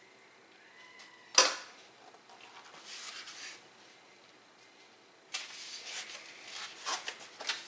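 Kitchen handling sounds: a single sharp knock, like a dish or utensil set down on a hard counter, about a second and a half in, then crackling, rustling handling noise with several sharp clicks through the second half.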